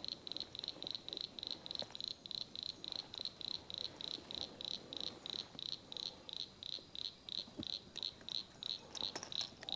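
Steady rhythmic high-pitched chirping from a calling insect or frog chorus, about three to four chirps a second without a break, with a few faint clicks near the end.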